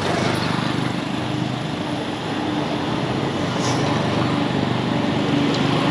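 Steady vehicle engine hum with road noise.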